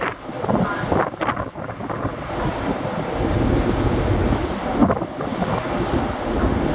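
Wind buffeting the microphone on the open deck of a moving ferry, over the rush of the sea. The low rumble grows heavier about two and a half seconds in.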